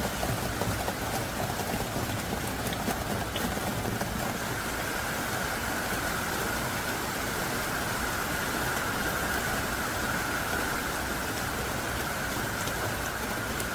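Heavy, driving rain falling steadily as an even hiss, with a few sharper drop ticks in the first few seconds.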